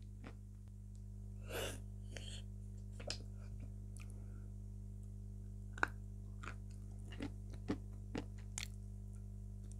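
Close-miked mouth sounds of a person eating a soft sweet: scattered wet clicks and smacks of chewing, the sharpest a little before six seconds in, over a steady low electrical hum.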